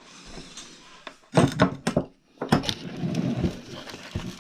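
Handling noise: a soft rustle, then a cluster of knocks and thuds about a second and a half in, and more thuds with rubbing from about two and a half seconds on.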